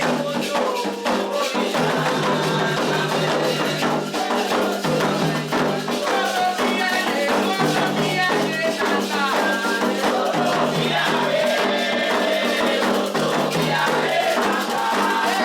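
Candomblé toque for Oxossi and Ossaim: atabaque hand drums beating a steady rhythm with a rattle shaking, and voices singing over them.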